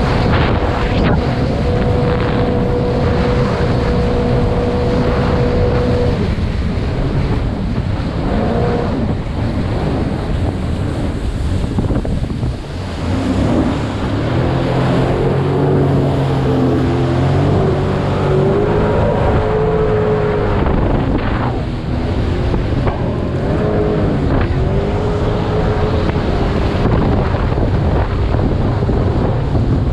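Jet ski engine running under way, its pitch steady at first and then rising and falling with the throttle from about halfway through, over the rush of water and wind buffeting the microphone.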